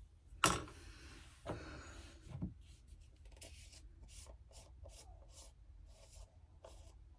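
A sharp click, then a run of short scratchy rubbing strokes on a wall, about two a second, as paint-sample swatches are brushed on or labelled.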